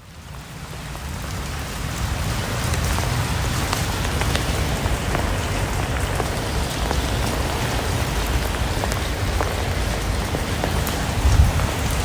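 Steady rain falling, with individual drops ticking sharply among the even hiss; it fades in over the first second or two.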